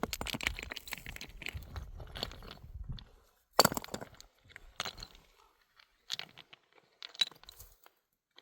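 Dense crunching and crackling over a low rumble for about three seconds, then a few separate sharp snaps or crunches a second or so apart.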